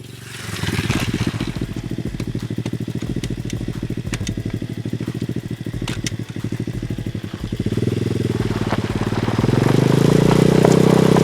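A 125cc pit bike's single-cylinder four-stroke engine running at low revs with an even pulse, then revved up twice near the end, the second rev the loudest.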